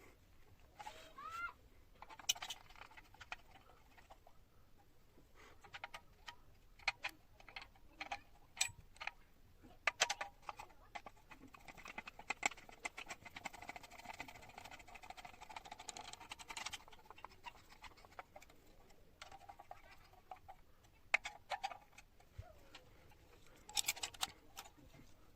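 Hand-work sounds from repairing an old electric clothes iron: scattered sharp clicks and light knocks of parts and tools being handled, with a steady rubbing or scrubbing noise for about five seconds in the middle.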